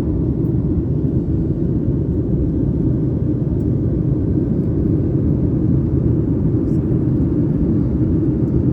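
Steady low rumble of a Boeing 737 MAX 8's engines and airflow heard inside the passenger cabin.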